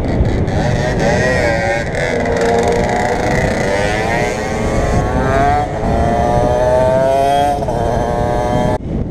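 Motorcycle engine accelerating, its pitch climbing steadily for several seconds and falling away near the end, over heavy wind rush on a helmet-mounted camera.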